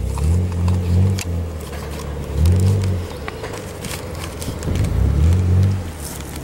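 A Jeep's engine revving up and easing off three times at the foot of a steep dirt hill climb.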